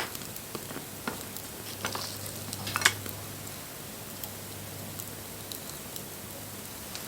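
Wood fire crackling and hissing, with irregular sharp pops over a steady sizzle; a cluster of louder pops comes around two to three seconds in.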